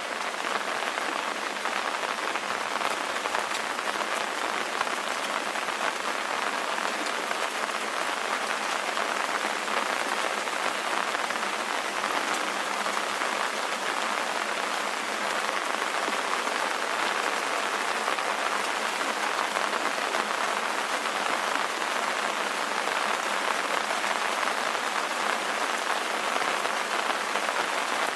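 Steady rain ambience: an even, unbroken hiss of rainfall with no single drops or thunder standing out, the deep end cut away so there is no low rumble.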